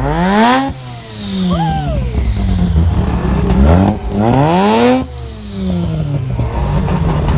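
A car engine revved hard twice, each rev climbing quickly and then falling back to idle, with a third rev starting near the end.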